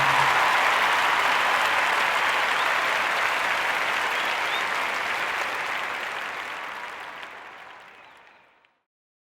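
Recorded crowd applause fading out steadily over about eight and a half seconds, after the last notes of the music, then cutting to silence.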